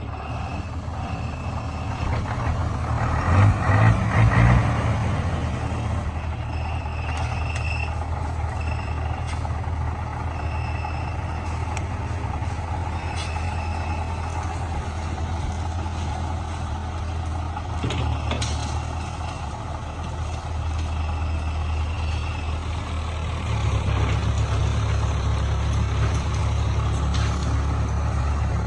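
Heavy vehicle engine running steadily, surging louder about four seconds in and rising again near the end, with short high beeps repeating now and then.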